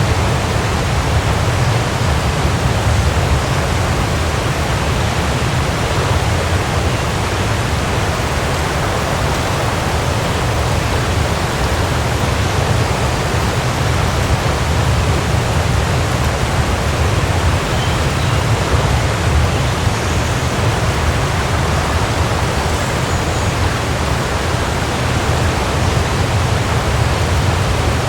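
Waterfall rushing in a steady, even roar of falling water, with a strong low rumble.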